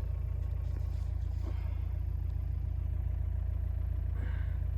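Steady low drone of a vehicle's engine running, heard from inside the cabin.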